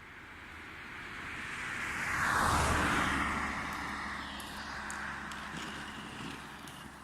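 A vehicle driving past, growing louder to a peak about two and a half seconds in and then fading away.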